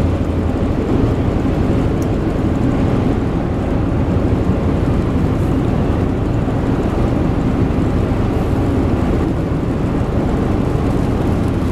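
Steady road noise inside a moving car: tyres hissing on wet highway pavement over the engine's drone.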